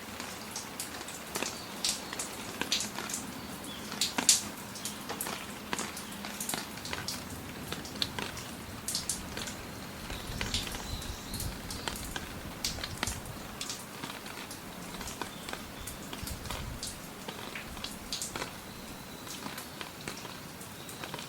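Steady rain, with many close, irregular drops striking hard surfaces as sharp drip clicks over the patter. A low rumble comes in about halfway through and fades a few seconds later.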